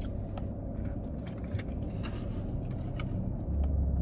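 Chewing and small crunches of fried chicken gizzards and livers inside a car, over a steady low vehicle rumble that grows louder near the end.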